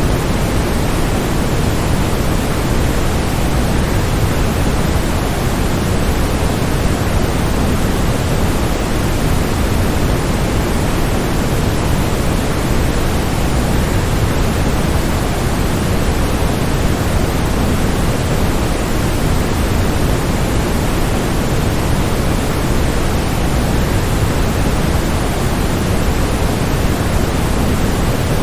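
Steady, even rushing noise of a waterfall, strongest in the low end, with no changes or separate events.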